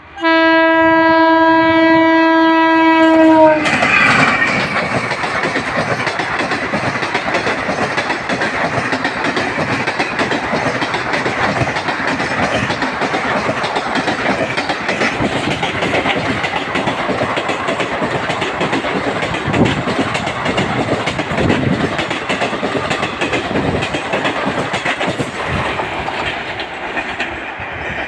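Train horn sounding one steady note for about three and a half seconds. Then a passenger train of blue ICF coaches passes close at speed, its wheels clattering rhythmically over the rail joints, fading near the end.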